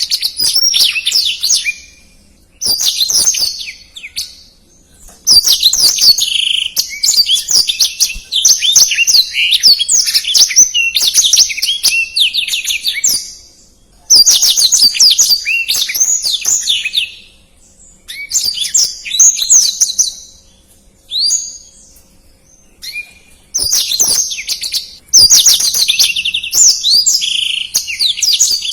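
Black-throated canary (blackthroat) singing a fast, tightly packed song of rapid twittering trills. The song comes in phrases from about one to eight seconds long, broken by short pauses, with the longest run lasting most of eight seconds near the start.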